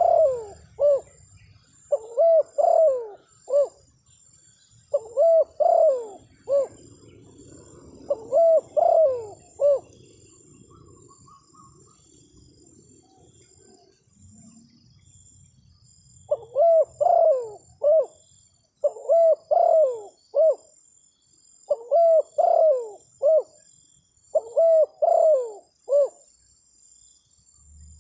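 Spotted dove (terkukur) cooing: a phrase of several notes repeated about eight times, with a pause of about six seconds in the middle.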